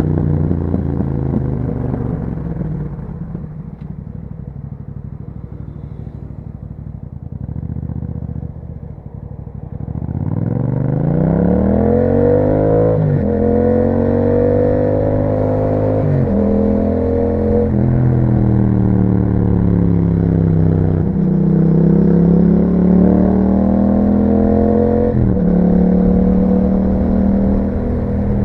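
Yamaha MT-07's parallel-twin engine through an Akrapovič exhaust with a dB killer, heard from on the bike. For the first several seconds it runs quieter at low revs, then about ten seconds in it pulls away with rising revs, the note dropping at each of several upshifts.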